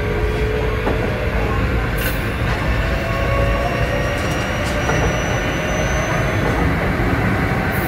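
Kintetsu 7000 series electric train running: steady rumble of wheels on track, with faint thin wheel-squeal tones and a few sharp clicks about two and five seconds in.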